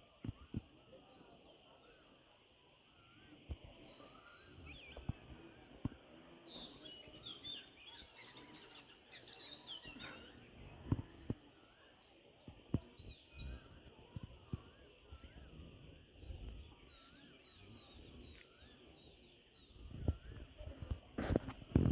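Birds calling: one short falling chirp repeats about every two seconds among other twittering notes, over a steady high-pitched drone. Scattered low knocks, growing louder near the end, are heard alongside.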